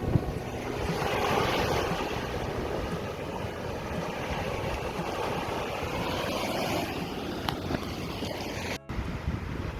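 Jet ski running over open water, with water rush and wind buffeting the microphone; the sound swells for a few seconds and cuts out for an instant near the end.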